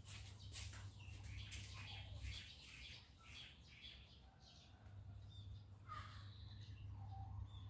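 Faint bird chirps and calls, short and scattered, with a few soft clicks in the first couple of seconds, over a low steady hum.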